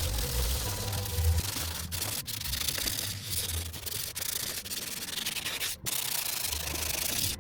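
Steady abrasive sanding on the car's sheet-metal bodywork, a continuous rasping rub with a few brief breaks.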